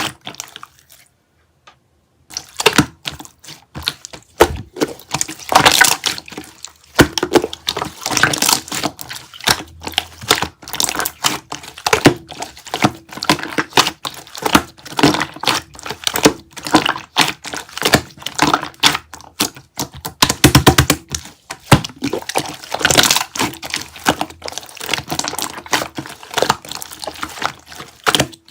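Slime being squished and pressed by hand, giving dense, irregular crackling and popping clicks, with a brief pause shortly after the start.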